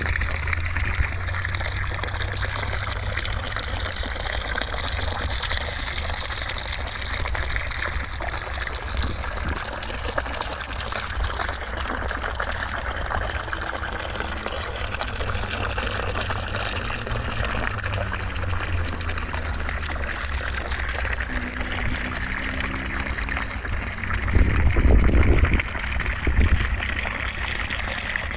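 Steady gushing of running water, used as a white-noise sleep sound, with a low rumble underneath that swells briefly near the end.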